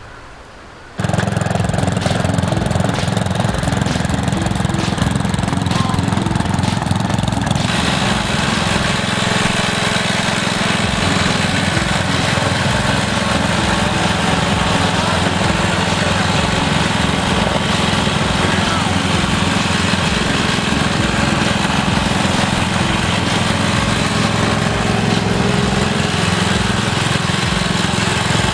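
MTD lawn tractor's engine running steadily at throttle, cutting in abruptly about a second in.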